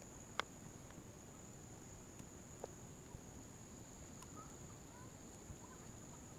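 Faint outdoor ambience: a steady high-pitched insect drone, with a few sharp clicks or taps, the clearest about half a second in.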